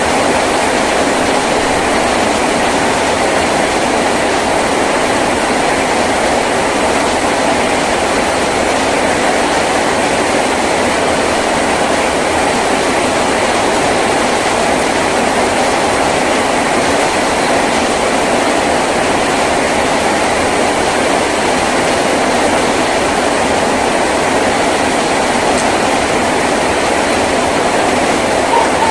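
Heavy rain falling on a tin roof, a steady, unbroken roar.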